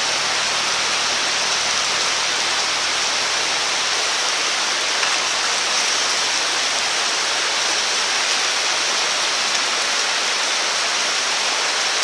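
Steady, even hiss of water, like rain falling or a stream running, with no distinct drops or crackles.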